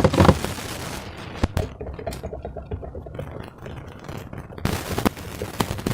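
Slime being squished and worked by hand, making sticky wet crackles and popping air bubbles. There is a dense burst of rapid crackling at the start, softer crackling after it, and more pops near the end.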